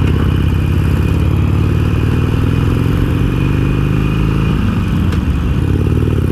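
Harley-Davidson Iron 883's air-cooled V-twin engine running steadily, with a brief dip and rise in pitch near the end.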